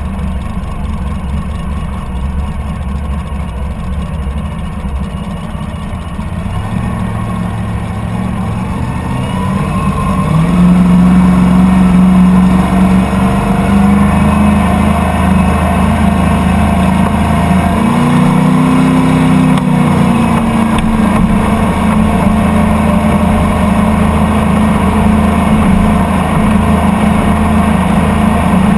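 Boat engine running at low throttle, then opened up about a third of the way in: its pitch climbs and it runs louder and steady at speed, with a brief rise and fall in pitch midway.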